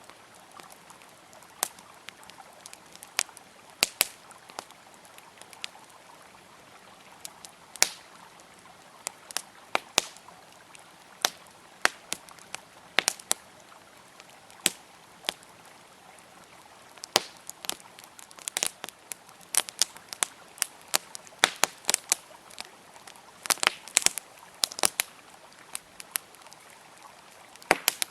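Wood campfire crackling with sharp, irregular pops, busiest near the end, over a steady rush of flowing river water.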